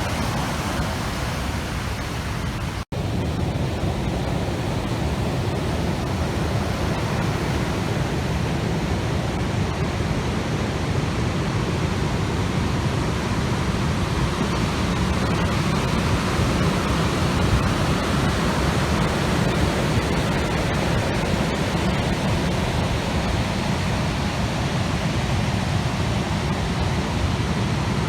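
Typhoon-whipped rough water rushing and breaking, a steady loud wash of noise with no distinct events, cut off for an instant about three seconds in.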